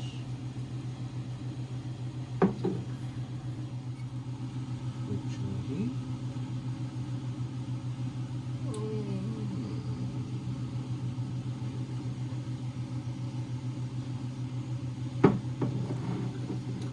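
A steady low hum that pulses regularly, with two sharp knocks, one about two and a half seconds in and one near the end.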